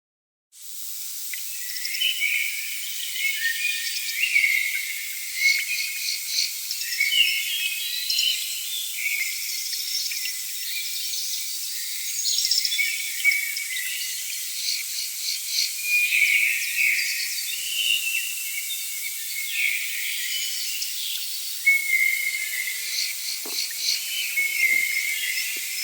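Rainforest chorus of insects and birds: many overlapping high chirps and rapid pulsing trills over a steady hiss, starting abruptly about half a second in.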